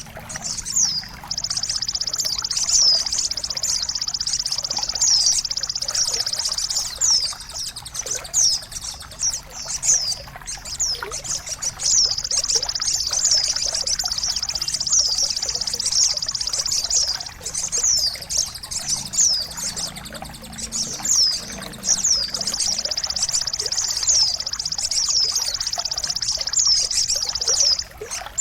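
Songbird chirps, many quick falling high notes, over a steady high trill that breaks off now and then, with trickling water behind them. This is a bird-song tutoring and therapy track for songbirds that have stopped singing.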